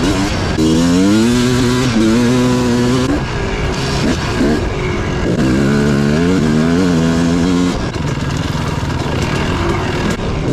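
250cc dirt bike engine revving under way: the pitch climbs and holds about half a second in, dips, then climbs and holds again about five seconds in.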